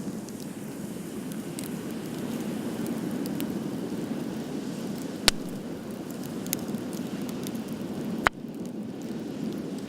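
Wood fire burning with a steady rushing sound and scattered crackles, with two loud sharp pops about five and eight seconds in.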